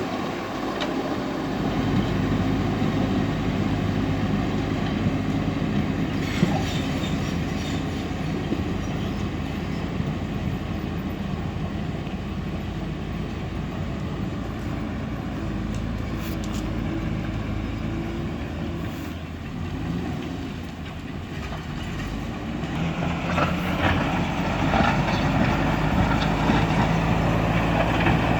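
JCB backhoe loader's diesel engine running steadily under work. About 23 seconds in it picks up and runs harder and louder.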